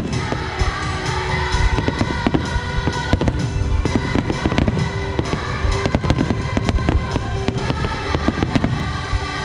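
Aerial firework shells bursting in quick succession, a dense run of bangs and crackles throughout. Music with long held notes plays underneath.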